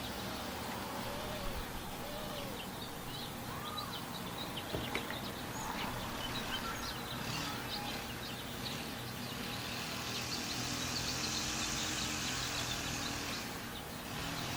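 Birds chirping outdoors: many short, high chirps scattered throughout, with a steady high hiss for a few seconds near the end.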